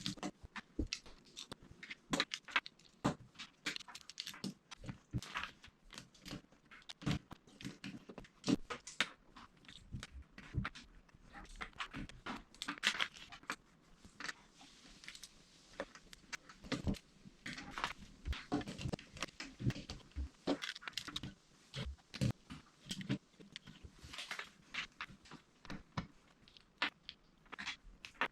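Small plastic LEGO pieces clicking and clattering as they are handled and pressed together, many short irregular clicks with brief rustling between them.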